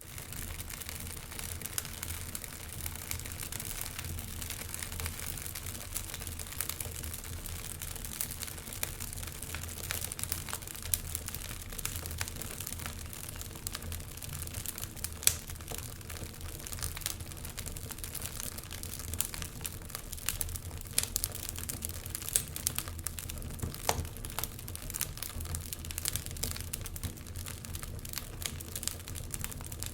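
Wood fire burning in a fireplace, crackling steadily with frequent sharp pops over a low rumble; one louder pop about fifteen seconds in.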